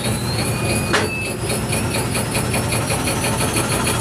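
Train running, a steady rumble with a faint whine that rises slowly in pitch, and a single sharp click about a second in.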